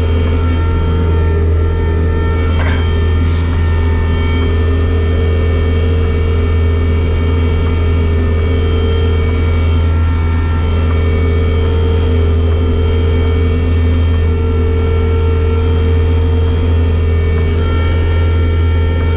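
Bobcat skid steer loader's diesel engine running steadily under work, a constant low drone with a steady whine above it.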